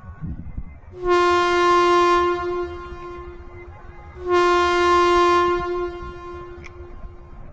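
Train horn sounding two long blasts of one steady pitch, each lasting about a second and a half, a few seconds apart.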